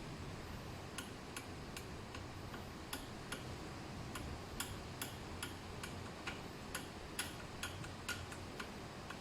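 A regular series of light, sharp clicks, about two or three a second, starting about a second in, over a faint steady hiss.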